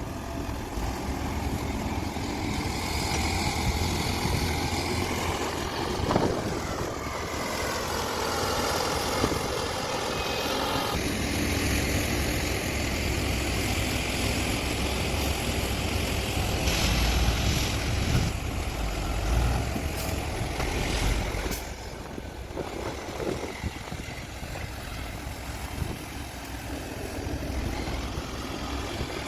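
Heavy diesel engines of a large mining excavator and haul trucks running steadily, with a few sharp knocks; the sound drops somewhat about two-thirds of the way through.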